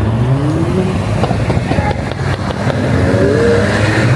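Car engines running at a street car meet, revving up in rising sweeps near the start and again about three seconds in, with a run of sharp exhaust pops in between.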